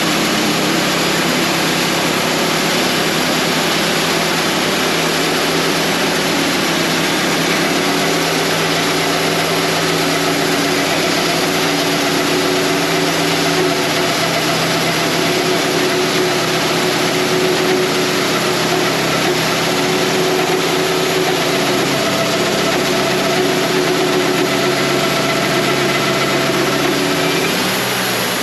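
Wood-Mizer LT35 portable bandsaw mill running steadily as it saws a red oak log, its engine note holding over the blade's noise. The sound eases slightly and shifts in pitch near the end.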